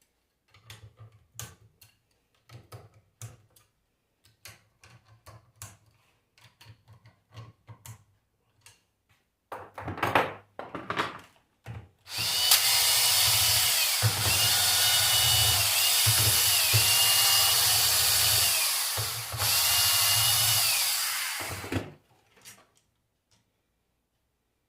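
An electric power tool runs loudly for about ten seconds in two spells, its motor whine dipping and rising. Before it come light clicks and knocks of small metal parts being handled.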